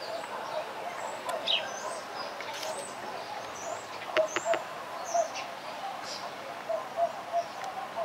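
Birds chirping: short, high, scattered chirps over a steady background murmur, with a few sharp clicks about four seconds in.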